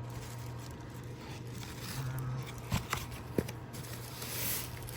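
Packaging being handled: light rustling of bubble wrap and cardboard, with a couple of sharp taps and a brief rustle near the end.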